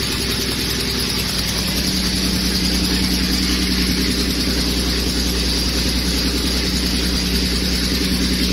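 Jaguar 6-litre V12, freshly rebuilt and fed through individual throttle bodies, idling steadily and evenly; the builder judges it to be running spot on.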